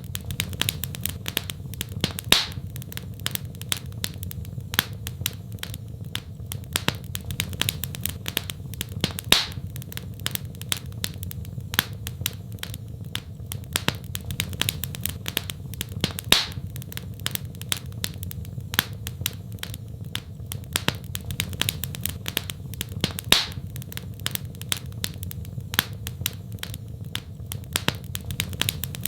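Wood fire in a fireplace crackling, with many small quick pops and a louder snap about every seven seconds over a steady low rumble.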